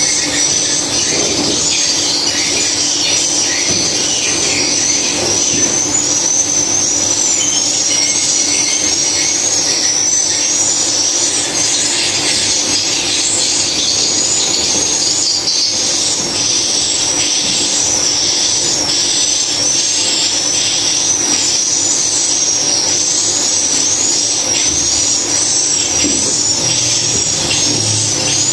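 Swiftlet calls: a dense, continuous high-pitched twittering of many short wavering chirps, repeating without a break.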